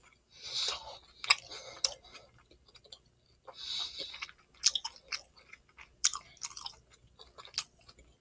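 A person chewing a mouthful of Philly cheesesteak sub with the mouth closed: irregular wet smacks and clicks, with a short pause about two and a half seconds in.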